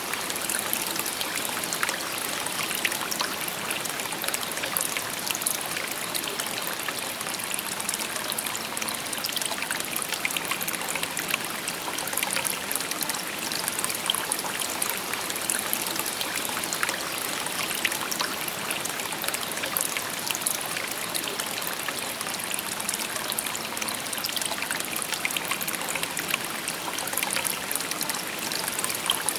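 Shallow river stream babbling steadily over stones, a constant rush of water with many small splashes and trickles.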